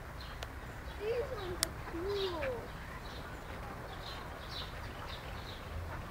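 Birds calling: faint, high, short chirps repeating throughout, with a few low, wavering calls between about one and two and a half seconds in.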